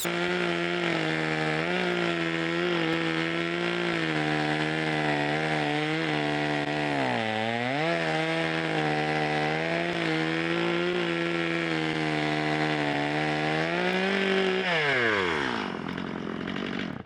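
Chainsaw running at high revs, cutting into a dead pine log, its pitch sagging once about seven seconds in as it bogs in the cut. Near the end the revs fall away as the throttle is released. The chain is dull and won't go through the log lengthwise, so it needs sharpening.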